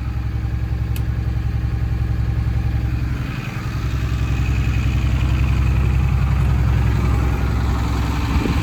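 2009 Blue Bird front-engine school bus engine idling steadily, growing louder about halfway through. A single sharp click about a second in.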